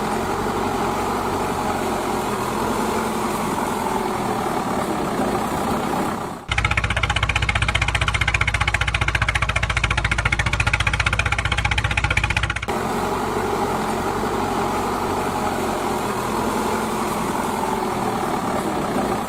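A homemade mini JCB's small motors running steadily. The sound cuts abruptly twice, and the middle stretch is louder, with a deeper hum and a fast, even pulsing.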